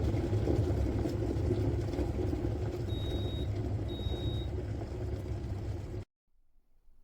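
Stainless-steel electric kettle heating water with a steady rumble, and two short electronic beeps about three and four seconds in. The rumble cuts off suddenly about six seconds in.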